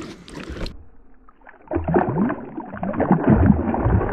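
Water sloshing and gurgling against a fishing kayak's hull, with a brief lull about a second in before the sloshing picks up again, muffled and dull.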